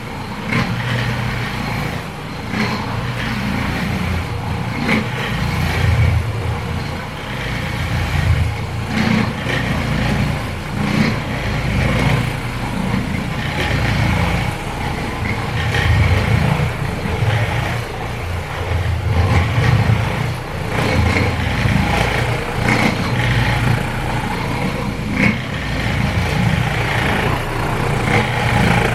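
Carpet-cleaning machine running continuously with a low motor hum that swells and dips as it is worked.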